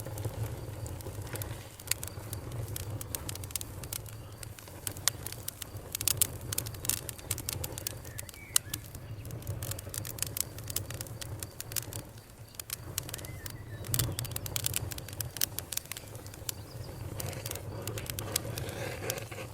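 Wood bonfire crackling, with frequent irregular sharp pops and snaps over the steady low rumble of the flames. Crickets chirp faintly in the background.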